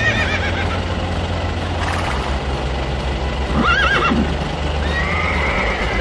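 Horse whinnying: a short wavering call at the start, a louder shaking one about three and a half seconds in, and a longer falling call near the end, over a steady low hum.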